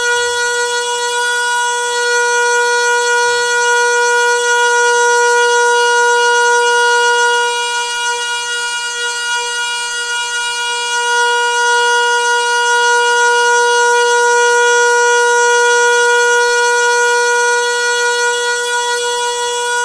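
Noisy water pipe giving off a loud, steady hum: one unwavering tone with a ladder of overtones, easing slightly in level around the middle.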